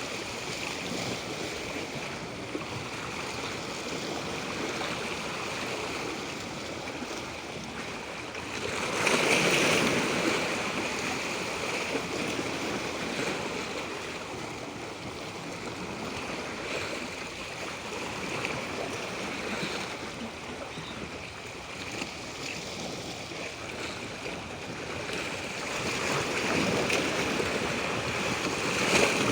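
Moving water rushing steadily, swelling louder about nine seconds in and again near the end.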